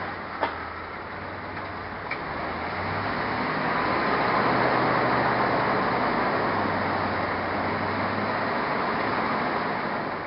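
1991 GMC Syclone's turbocharged 4.3-litre V6 running through a Magnaflow exhaust. The sound swells about three seconds in and stays up, with two sharp clicks in the first two seconds.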